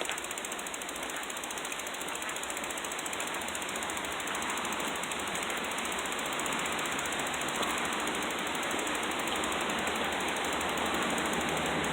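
Bicycle rear hub freewheel ticking rapidly while coasting, with tyre and wind noise, gradually getting louder.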